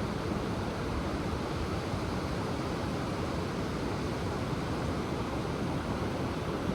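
Ocean surf washing onto the shore, a steady rushing noise with no single wave crash standing out.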